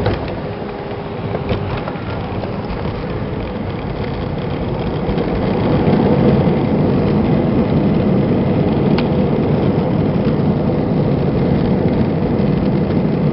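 Airbus A320 cabin noise: the jet engines and airflow as heard from an economy seat. It swells about five seconds in, then holds steady and loud.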